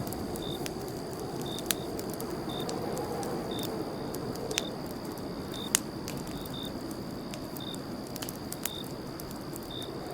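Campfire burning with a steady low rush and a few sharp crackles and pops. Crickets chirp through it, a short high chirp about once a second.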